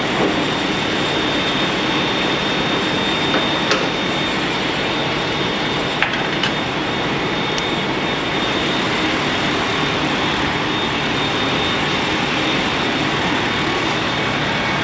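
Steady road and engine noise inside a semi-truck's cab while driving in a blizzard, with a few sharp clicks partway through.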